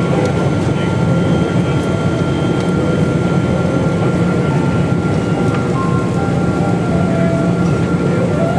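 Cabin noise inside a Boeing 777-200ER airliner: a steady loud rumble with a thin steady whine above it and a few faint light clicks.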